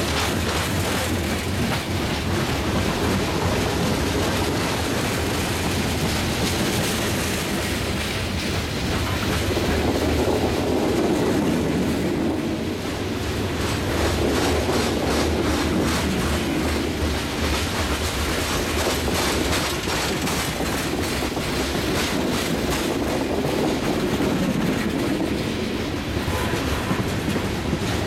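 Hopper cars of a long coke train rolling past, a steady rumble of steel wheels on rail with a continual run of wheel clicks.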